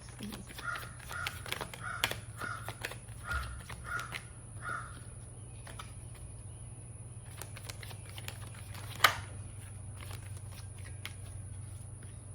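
A bird calling over and over, about eight calls in quick succession, stopping about five seconds in. Scattered sharp clicks and taps run throughout, the loudest about nine seconds in, over a steady low hum.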